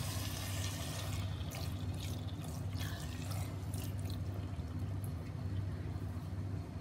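Chicken keema frying in a handi as a spatula stirs and scrapes through it: a soft sizzle with scattered small crackles and ticks, over a steady low hum.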